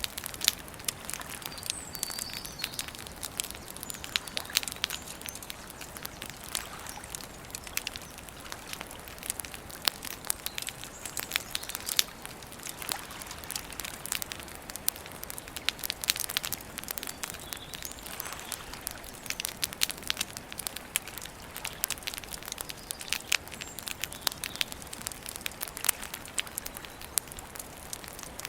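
Wood campfire crackling and popping steadily, many sharp snaps over a soft hiss, with a few faint bird chirps now and then.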